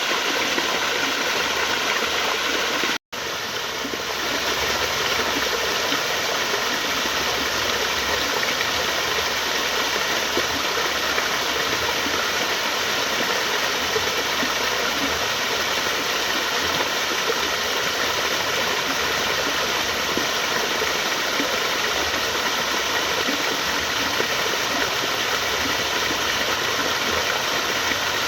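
Steady rushing of flowing water. It cuts out completely for an instant about three seconds in, then comes back and quickly returns to full strength.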